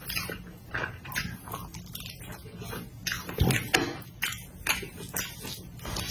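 Close-miked chewing of food, with irregular mouth smacks and clicks and a louder thump about three and a half seconds in.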